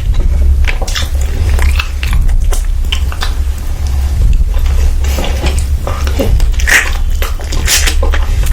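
Close-up chewing and lip smacking, with irregular wet mouth clicks, over a steady low hum.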